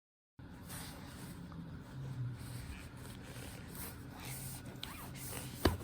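Faint room tone with soft rustling from small objects being handled, and one sharp click near the end.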